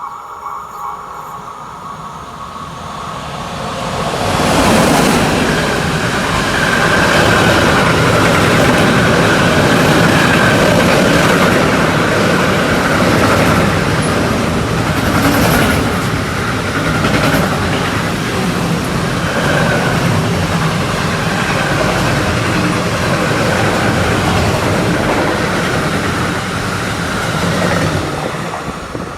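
Container freight train passing at speed: the noise builds over the first few seconds as it arrives, then the wagons make a long, steady rumble and rattle on the rails, easing off near the end.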